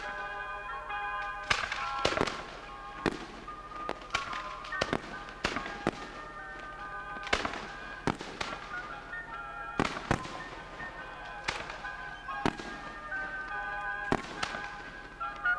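Fireworks going off, about fifteen sharp bangs at irregular intervals, roughly one a second, over steadily playing music.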